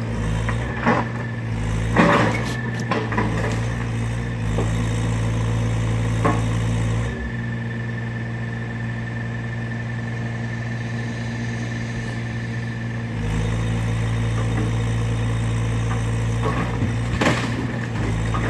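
Excavator engine running steadily, dropping to a lower, quieter note for about six seconds midway with a steady high whine, then picking back up. A few knocks are heard along the way.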